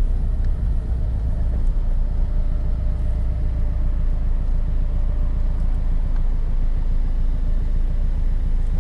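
Scion FR-S's turbocharged flat-four engine running steadily through its modified, louder-than-stock exhaust: an even low drone with no revving.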